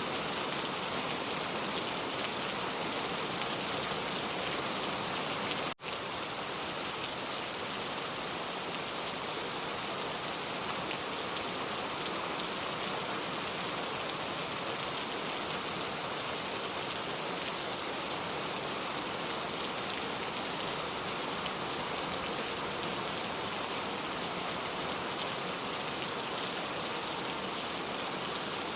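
Heavy rain pouring steadily, an even hiss of many drops. It breaks off for a split second about six seconds in, then carries on.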